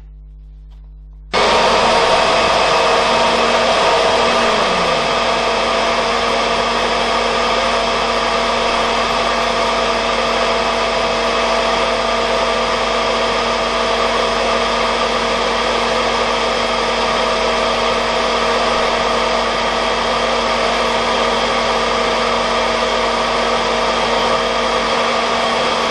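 Kirby Sentria upright vacuum switched on with the brush roll off, its motor and fan starting abruptly about a second in and running at a steady high whine during a CFM airflow test, beginning to spin down at the very end. The run measures just under 118 CFM, under par for the machine, with an old cheap paper bag fitted.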